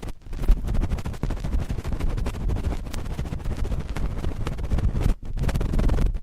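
Cotton swab scratching and rubbing right on a microphone: a dense, rapid crackle of close scrapes and clicks with a heavy low rumble, pausing briefly just after the start and about five seconds in.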